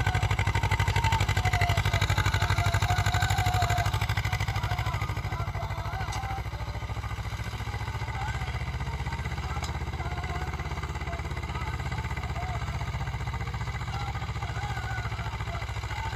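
Swaraj 724 XM tractor's two-cylinder diesel engine running steadily under load while pulling a harrow, its pulsing note dropping somewhat in loudness about five seconds in.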